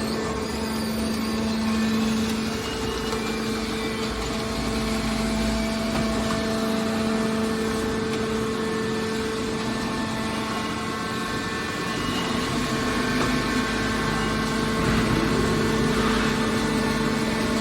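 Hydraulic metal baler running, the steady hum of its hydraulic pump and motor.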